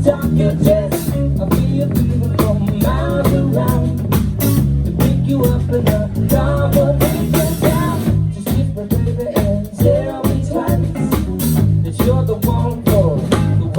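Band playing a song with a sung lead vocal over guitar, bass and drum kit, the drums keeping a steady beat.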